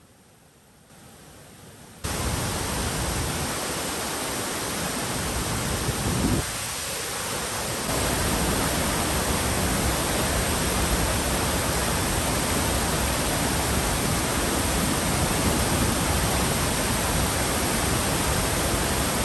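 Ohko Falls' steady roar of falling water, a loud even rush that starts suddenly about two seconds in after a quiet opening, with a short break in it around six to eight seconds.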